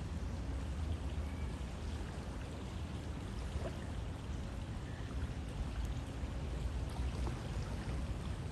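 River water flowing steadily: a continuous, even rushing wash, heaviest in its low rumble.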